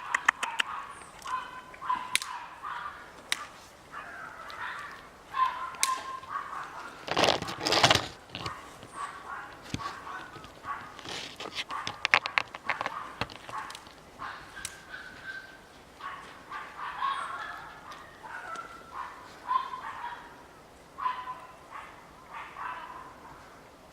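A young Yorkshire terrier whining and whimpering in short, repeated high calls, the whine of a dog asking for attention. Scattered clicks run through it, and a brief loud rustling noise comes about a third of the way in.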